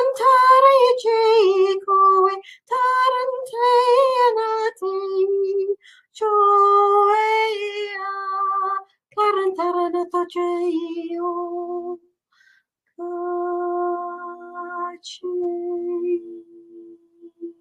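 A woman's voice toning: wordless sung phrases with a wavering pitch, broken by short breaths. After a brief pause near the end comes a steadier held note that fades toward humming.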